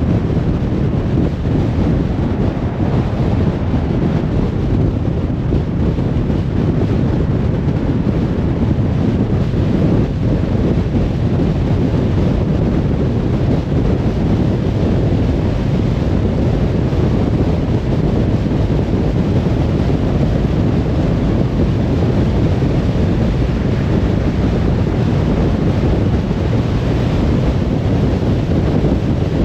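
Car driving at highway speed: a steady, even low rumble of tyre and wind noise with no breaks or changes.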